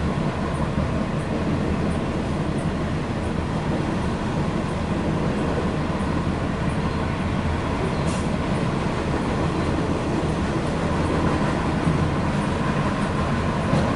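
Cars of a long CN freight train rolling past without slowing, a steady noise of wheels on rail.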